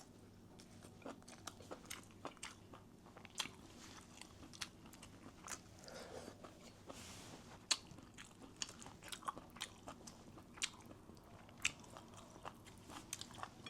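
A person chewing crunchy food close to the microphone: irregular sharp crunches and clicks, several a second, with quieter chewing between them.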